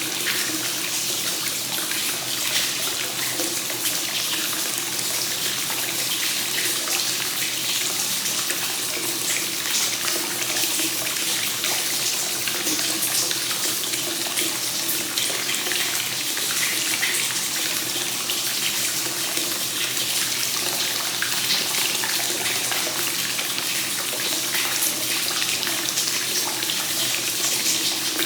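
Hot spring water running continuously into an onsen bath in free-flowing (kakenagashi) style, a steady, even splashing and gushing with no pause or change.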